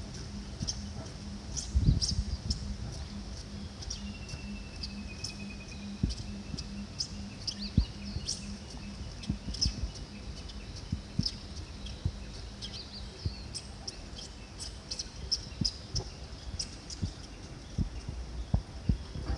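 Wild birds chirping with short, high, repeated notes, with a pulsed trill that slides slowly down in pitch about four seconds in. Scattered low knocks sound beneath.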